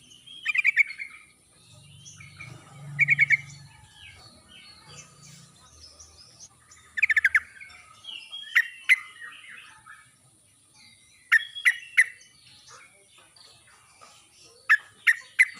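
Yellow-vented bulbul (trucuk) calling: short bursts of quick chattering notes, three times in the first half, then sharp single notes in groups of two or three, with other birds calling faintly behind.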